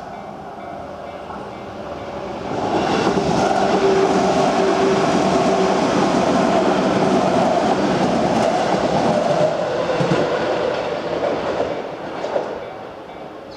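A Nambu Line electric train passing over a level crossing, its wheels clattering on the rails. It swells about two and a half seconds in, stays loud for several seconds and fades near the end. The crossing's warning bell rings faintly at the start and again at the end.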